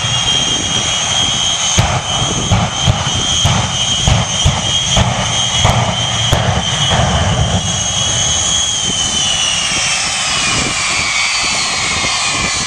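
Jet engines of the Shockwave jet truck running with a high, steady whine, cut by a quick series of sharp cracks during the first seven seconds. From about nine seconds in, the whine's pitch slides down.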